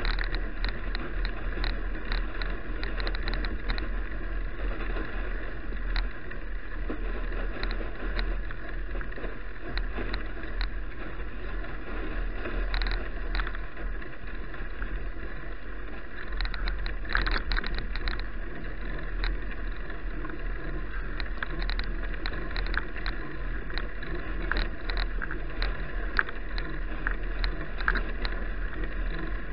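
Riding noise picked up by an action camera on a moving bicycle: steady wind rumble over the microphone with frequent small clicks and rattles from the bike and mount.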